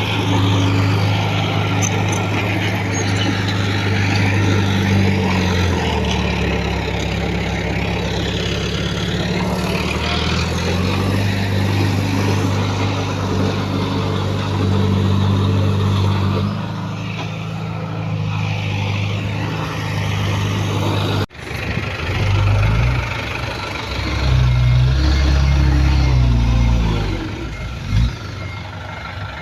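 Diesel engines of heavy earthmoving machinery running under load, their pitch rising and falling. The sound breaks off abruptly about two-thirds of the way through and resumes with a different engine pattern.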